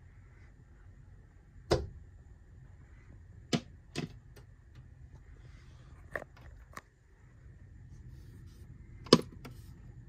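Female northern cardinal striking and pecking at window glass, about six sharp taps and thumps at uneven intervals, the loudest near the end. This is typical of a cardinal attacking its own reflection in the glass.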